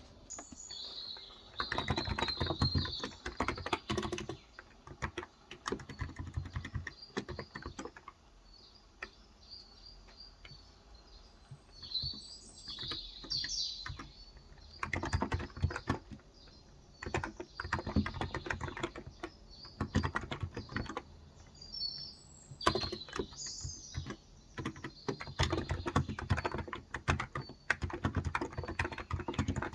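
Typing on a Cox Endeavour 35 g contactless capacitive tenkeyless keyboard, in quick runs of key strokes broken by pauses. Birds chirp in the background a few times.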